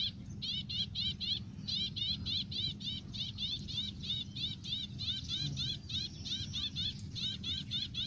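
A bird calling in a fast, even run of short high chirps, about five a second, with a brief break about a second in and growing fainter in the second half, over a low steady rumble.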